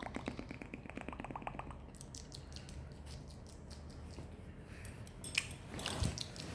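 Close-up ASMR mouth sounds: a quick, evenly pulsing rattle for about two seconds, then scattered soft clicks, with a busier patch of clicks and a low thump near the end.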